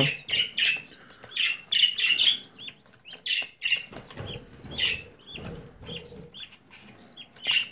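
Budgerigar chick, about three weeks old, giving a string of short, high calls, several a second at times, as it is held and has a leg ring slipped on.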